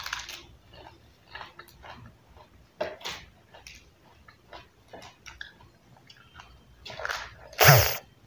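Crisp crunching bites and chewing of raw lettuce leaves, in irregular short bursts. A louder crunch with a thump comes near the end.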